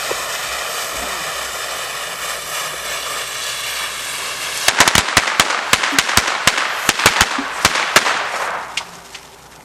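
A lit visco fuse hissing steadily for about four and a half seconds, then a string of red ThunderBomb firecrackers going off as about fifteen sharp bangs in quick, uneven succession over some three seconds.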